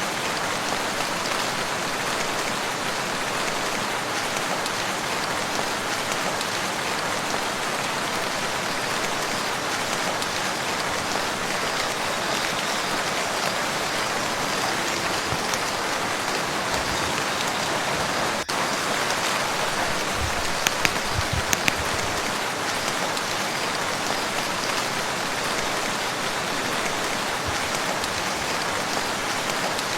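Steady rain falling on a lake's surface, an even hiss of countless drops, with a few louder single drop taps standing out about two-thirds of the way through.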